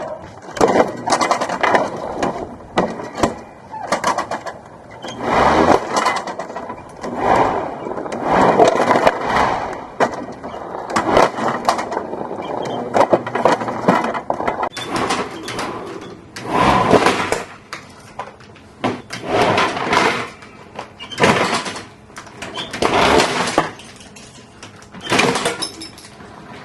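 A plastic toy being broken apart: a series of loud crunching bursts, one every second or two.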